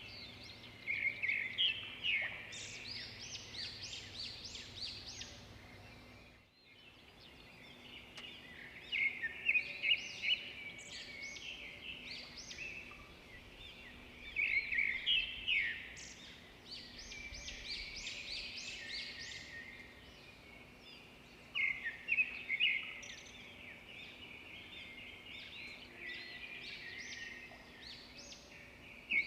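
Songbirds singing: bouts of quick, high chirping notes about two seconds long, coming back every five to seven seconds over a faint steady outdoor background, which drops out briefly about six seconds in.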